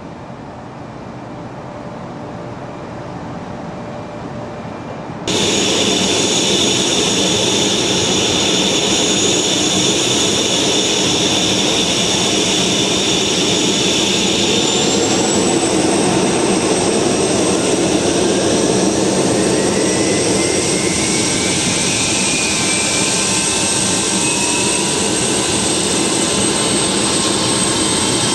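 Helicopter turbine engine and rotor running, getting slowly louder, then jumping abruptly in loudness about five seconds in. A whine rises in pitch past the middle.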